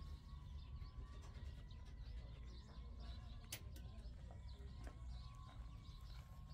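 Faint small birds chirping over a steady low rumble, with a single sharp click about three and a half seconds in.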